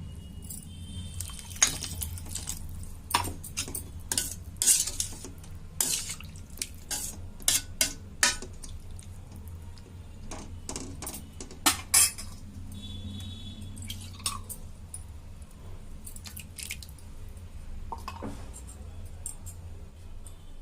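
Repeated sharp clinks of a glass and metal utensils against a cooking pan as water is poured into the fried onions, with a steady low hum underneath.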